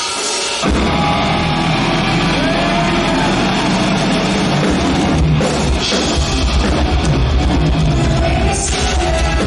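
Live progressive metal band playing, with distorted electric guitars, bass and drums; the full band comes in under a second in after a thinner opening.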